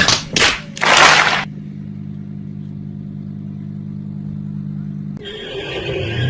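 Three loud, rough bursts of noise in the first second and a half. A car engine then idles steadily, and about five seconds in there is an abrupt change to another engine running.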